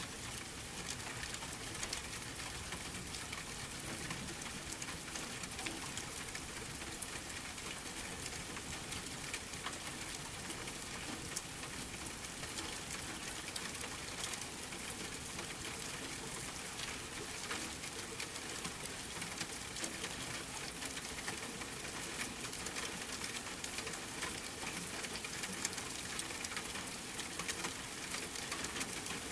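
Steady rain mixed with a crackling fireplace: an even hiss dotted with many small, sharp ticks and pops.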